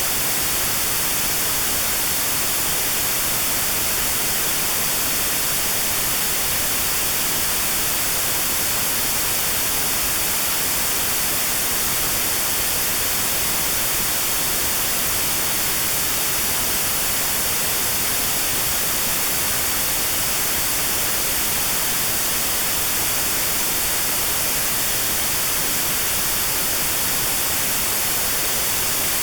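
Steady white noise with a narrow band around 4 kHz filtered out: notched sound therapy for tinnitus.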